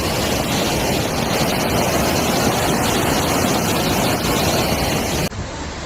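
Loud, steady rushing of floodwater, with wind buffeting the microphone. Near the end it drops abruptly to a quieter hiss.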